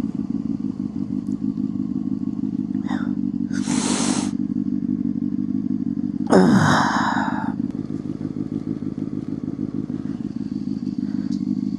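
Motorcycle engine running steadily while riding. A brief hiss comes about four seconds in, and a louder burst with a falling pitch about six seconds in.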